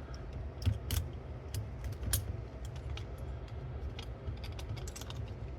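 Scattered clicks and light knocks of small mechanical parts being handled as a cassette deck's tape transport is pulled apart, over a steady low hum.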